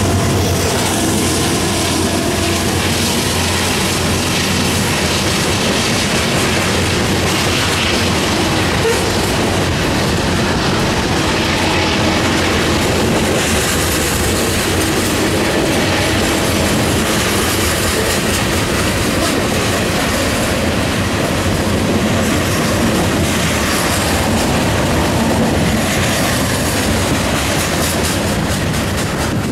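Union Pacific coal train passing close by: diesel locomotives going by at the start, then loaded coal hopper cars rolling past with a loud, steady rumble of wheels on rail.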